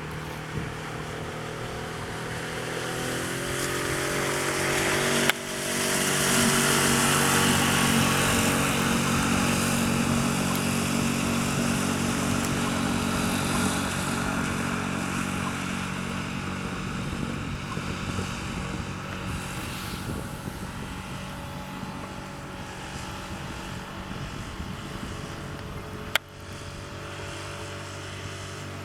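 Suzuki DF5 single-cylinder four-stroke outboard motor running under way: its revs climb over the first few seconds, then hold steady, with water and wind noise loudest soon after. A sharp click comes near the end, after which the sound is quieter.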